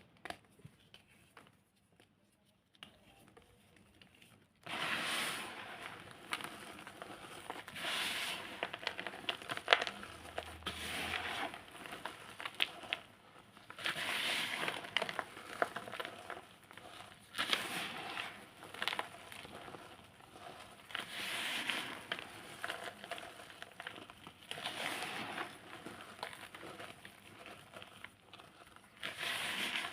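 Reformed blocks of packed cornstarch being squeezed and crumbled by hand, giving crisp crunching in repeated squeezes every few seconds after a quiet start of about five seconds.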